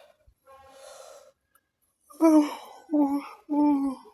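A woman's voice making three short, loud vocal sounds, each a held note of about half a second, starting about two seconds in.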